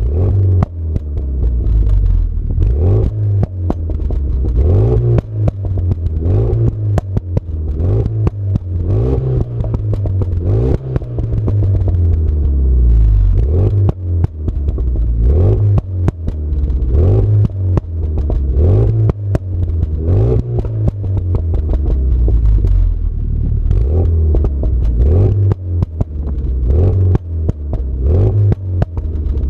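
Exhaust note of a Renault Mégane 3 RS 265's turbocharged 2.0 four-cylinder through a 76 mm Scorpion cat-back exhaust, the engine speed rising and falling again and again every couple of seconds, with many sharp clicks over the top.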